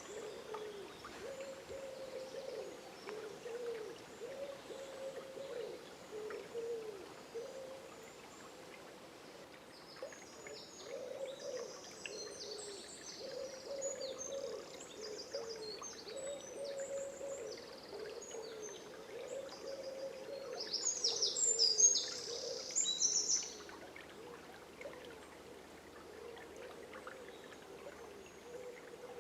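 Dawn chorus in woodland by a river: a bird repeats low hooting calls all through, while songbirds sing high, quick notes in the middle, loudest for a few seconds near the end, over the faint rush of the water.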